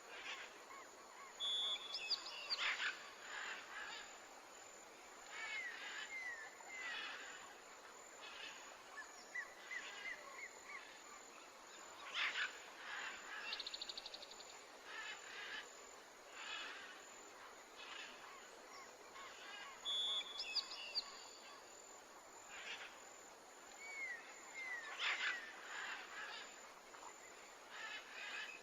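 Several birds chirping and whistling in short, scattered calls over a faint, steady background hiss. The same run of calls, including a short steady whistle, comes round again about eighteen seconds later.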